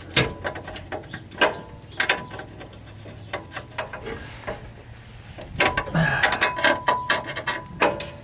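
Hand ratchet clicking in short runs of strokes as a stubborn transmission bolt is turned. There are a few runs in the first two seconds, then a quicker, denser run near the end.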